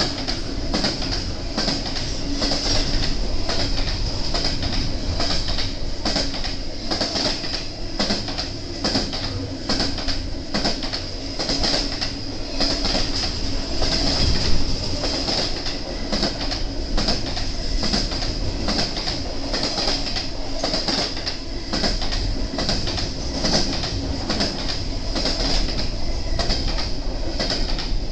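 BNSF intermodal freight train rolling past, its wheels clicking steadily over the rail joints, with a steady high-pitched squeal held above the rumble.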